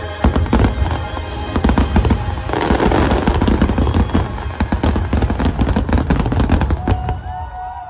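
A fireworks barrage: a rapid, dense run of bangs and crackling that thickens from about two and a half seconds in and thins out near the end.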